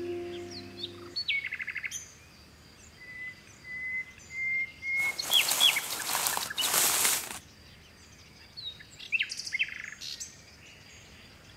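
Birds chirping and calling in short scattered phrases, over a held music chord that ends about a second in. In the middle comes a loud rush of noise in two swells, lasting about two and a half seconds.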